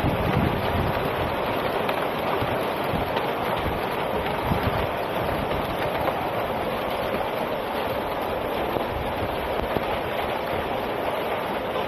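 Heavy rain and hail coming down in a steady, dense hiss, with gusts of wind rumbling on the microphone near the start and about four and a half seconds in.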